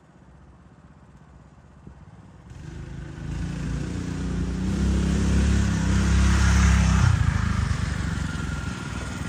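A motor engine running, faint at first. It grows louder from about two and a half seconds in, is loudest a little past the middle, then eases off near the end.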